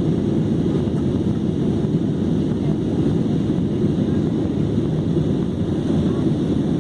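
Steady low rumble of a jet airliner's cabin in cruise flight: engine and airflow noise heard from inside the plane.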